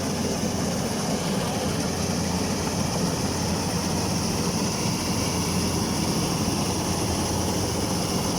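Yanmar DC105X combine harvester's diesel engine running steadily, a constant low drone with a broad mechanical whir over it.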